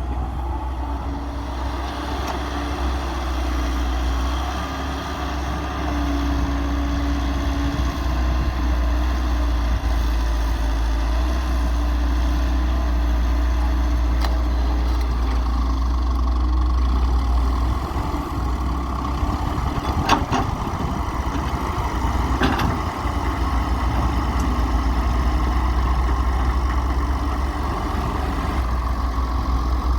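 Hyundai 113W wheeled excavator's diesel engine running steadily while working, with steady higher tones over the engine and two sharp metallic knocks about twenty seconds in.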